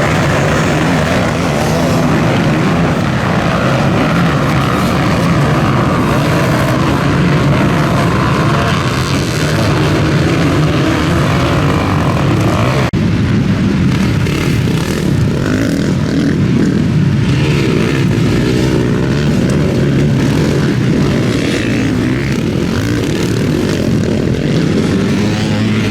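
Motocross bike engines running hard, pitch rising and falling as riders rev through the gears. The sound breaks off sharply about 13 seconds in and resumes with a different mix of engines.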